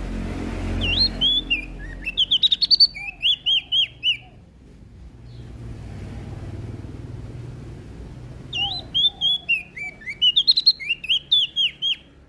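Prenjak daun (leaf warbler) singing in two rapid bursts of sharp, high chirping notes, with a pause of about four seconds between them, over a low background rumble.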